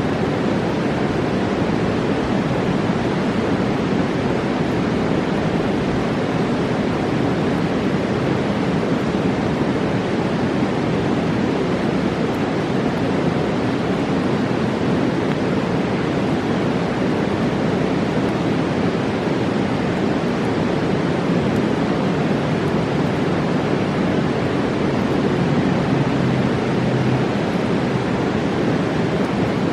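Mountain river rushing over rocks: a steady, loud rush of water with no breaks.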